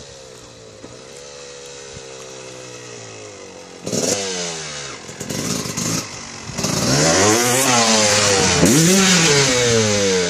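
Dirt bike engine idling steadily, then blipped sharply about four seconds in and revved hard from about halfway, its pitch climbing and dropping several times under throttle.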